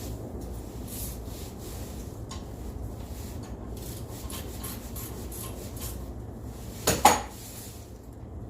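Light clinking and rubbing of hard objects over a low steady rumble, with a loud sharp clatter about seven seconds in.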